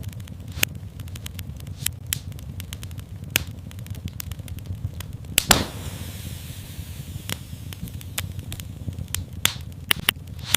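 Fire in a fireplace crackling over a low steady rumble, with irregular sharp pops; the loudest pop comes about five and a half seconds in.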